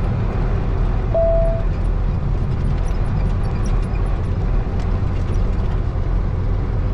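Steady low engine and road rumble inside a truck cab as the truck drives across a pasture, with faint rattling ticks and a brief squeak about a second in.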